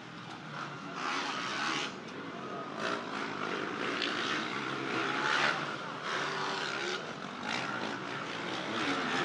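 Motocross dirt bikes racing on the track, their engines revving up and down in repeated surges as riders accelerate past.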